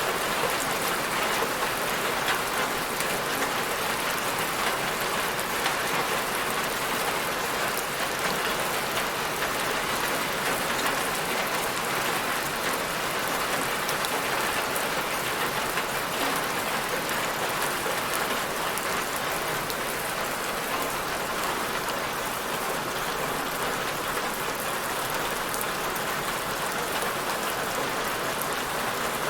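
Steady rain falling on a surface, a dense even patter of drops with no pauses or thunder.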